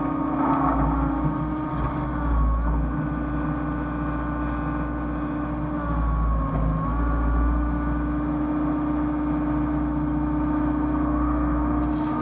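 Hyundai excavator's diesel engine running steadily under a continuous low drone, with a hydraulic whine that shifts in pitch a few times as the machine works.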